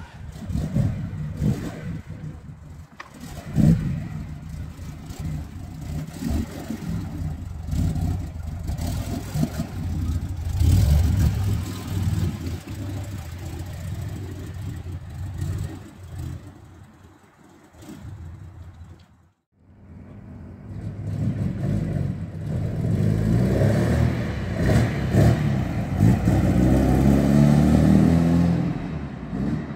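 1970 Alfa Romeo Giulia Super's twin-cam four-cylinder engine running and revving, with a sudden break about two-thirds of the way through. Afterwards the car drives off, its engine note rising as it accelerates.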